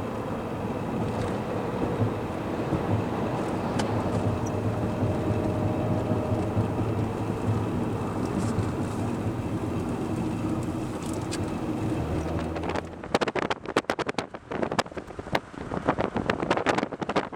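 Gale-force wind: for most of the time a steady rush of noise with a low hum under it, then about thirteen seconds in it changes abruptly to strong gusts buffeting the microphone in rapid, irregular thumps.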